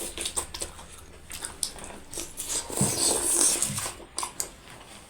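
Close-up eating sounds: wet chewing and lip smacking in quick clicks, with a longer, louder slurp-like stretch about three seconds in.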